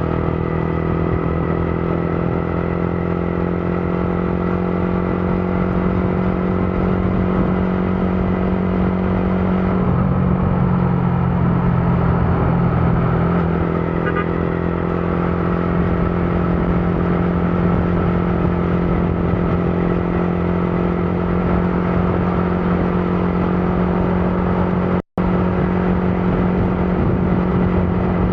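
Motorcycle engine running at a steady speed under the rider, a constant engine hum with road noise, briefly joined by a second, lower engine note in the middle. The sound cuts out for an instant near the end.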